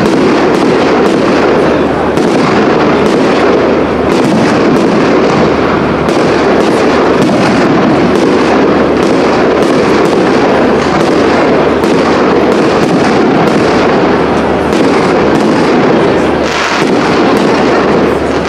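Aerial fireworks: shells bursting one after another in a dense, unbroken run of bangs and crackling.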